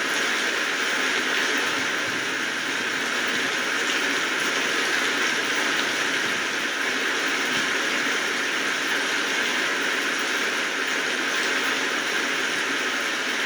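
Steady rainfall, a constant even hiss of raindrops with no single drops or gusts standing out.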